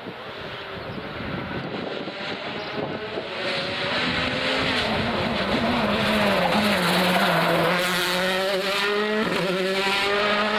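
Rally car approaching under power, its engine note growing louder over the first few seconds. The engine pitch drops in the middle, holds steady for a few seconds, then climbs again near the end.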